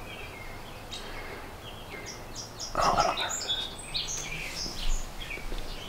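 Small birds chirping in quick, short notes outdoors, with a brief louder burst of noise a little before halfway through.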